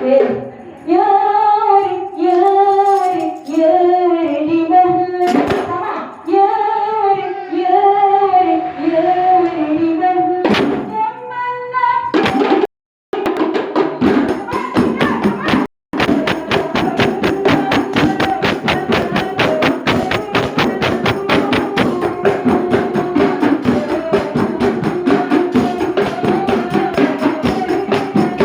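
A woman singing a sholawat melody, at first nearly alone, then after two brief dropouts a fast, steady beat of hand percussion comes in under the continuing melody.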